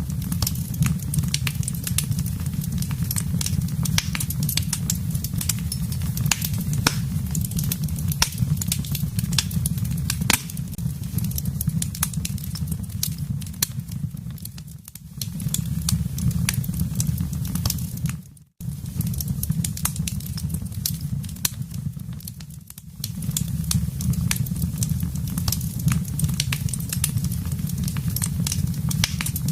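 Wood fire burning in a fireplace: frequent sharp crackles and pops over a steady low rumble of the flames. About two-thirds of the way through, the sound cuts out for an instant.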